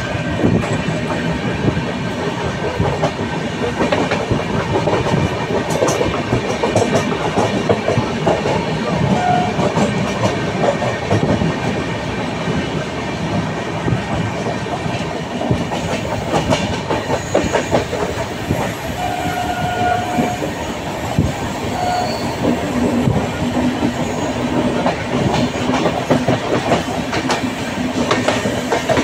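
Train running on the track, its wheels clattering continuously over the rails, with a few short steady tones about a third and two thirds of the way through.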